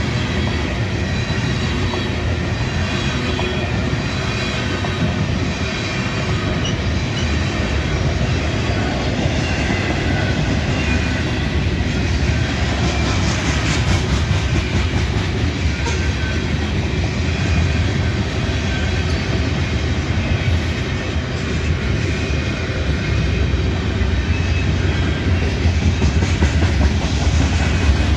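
Freight train cars rolling past at a steady speed, steel wheels rumbling and clacking on the rails.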